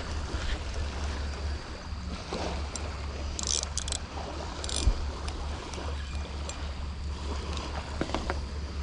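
Seaside ambience: a steady low rumble and hiss of wind on the microphone and light surf. A few short sharp clicks come about halfway through, then a single thump just before the five-second mark.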